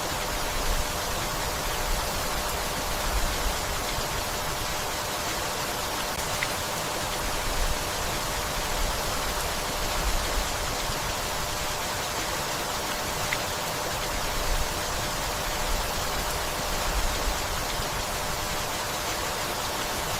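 Steady gentle rainfall, an even hiss of rain, with a low rumble that swells and fades every second or two beneath it.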